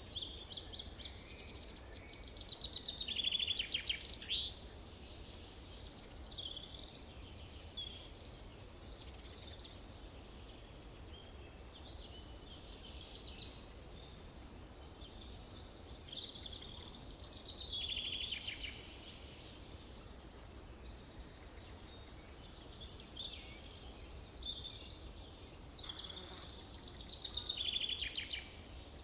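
Forest birds singing, with many short, overlapping chirping and trilling phrases from several birds, louder bursts about three seconds in and near the end, over a faint steady low rumble.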